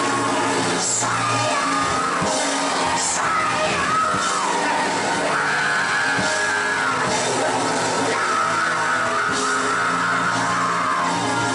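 Live church music, with a voice singing or shouting long held, wavering notes over a sustained band accompaniment.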